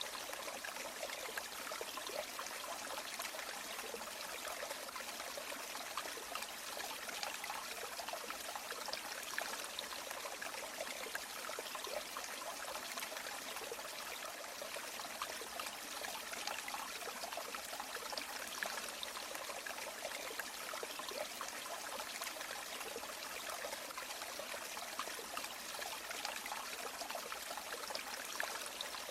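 River water flowing steadily over rocks, a constant babble of small splashes and trickles without pauses or changes.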